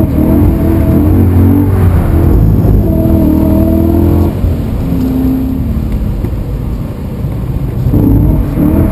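BMW E92 M3's 4.0-litre V8, heard from inside the cabin, revving hard under throttle through a drift. It eases off for a few seconds around the middle and comes back on hard near the end.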